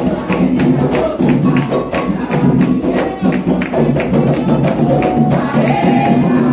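Candomblé atabaque drums playing a fast, dense rhythm for Oxossi, with singing over the drums.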